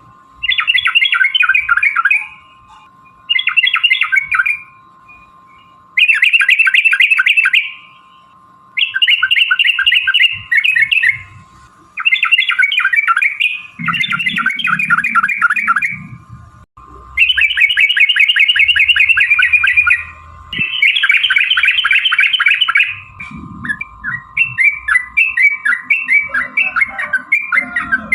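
Yellow-vented bulbul (trucukan) giving long rolling 'ropel' chatter: bursts of fast, scratchy notes a second or two long, one after another with short breaks. Near the end the notes turn looser and more separate. This is the agitated, fighting-style song that bird keepers play to provoke other trucuk birds into answering.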